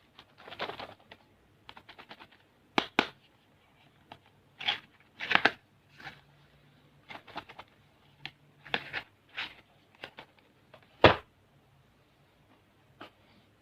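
Candy packets being handled: plastic wrappers crinkling and rustling in short, irregular bursts, broken by sharp clicks and taps, the loudest a single sharp knock about eleven seconds in.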